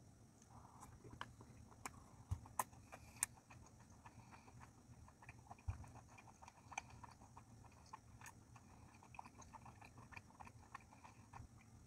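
Faint closed-mouth chewing of sushi: scattered soft wet clicks and smacks, with a few sharper ones in the first six seconds.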